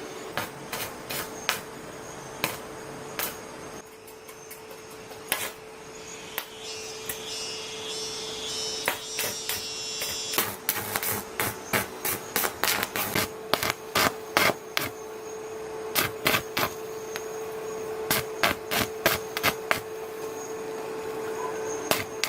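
Repeated hammer blows on metal, sparse at first and then coming in quick irregular runs from about halfway through, over a steady hum. A short rasping scrape comes before the runs of blows.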